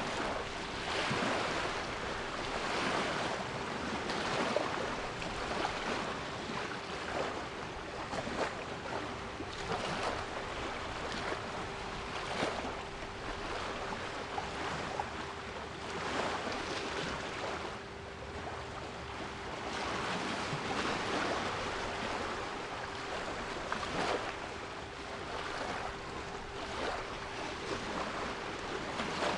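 Sea waves washing in and out in repeated swells, with a steady 396 Hz pure tone held underneath.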